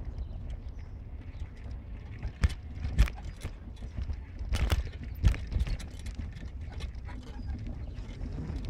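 A car driving, with a steady low road-and-engine rumble and several sharp knocks, the loudest about two and a half and three seconds in and again around five seconds.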